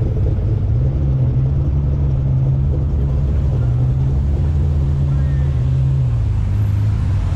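Ford Barra straight-six engine in a Toyota Crown wagon, droning steadily at cruising revs. Its pitch lifts slightly about a second in and eases off a little later.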